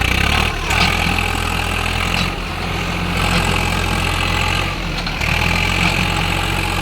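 Swaraj 744 XT tractor's diesel engine running loudly and steadily, with slight changes in its note a few times.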